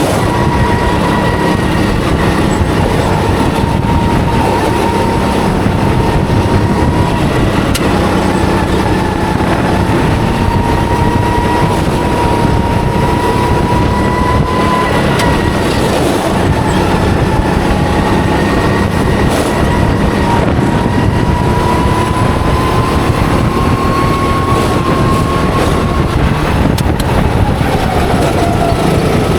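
Go-kart engine running hard at high revs, heard from the driver's seat over a rumbling chassis and road noise; its pitch wavers a little through the lap and falls near the end as the kart slows.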